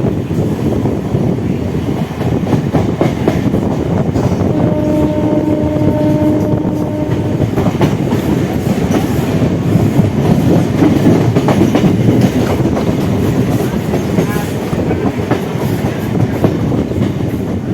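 On board a suburban electric local train running fast: a steady rumble and the clatter of wheels over rail joints. A train horn gives one steady blast of about three seconds, starting about five seconds in.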